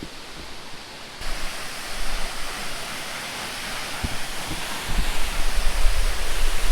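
Waterfall rushing: a steady, even hiss of falling water that steps up in level about a second in. A low rumble joins it about five seconds in.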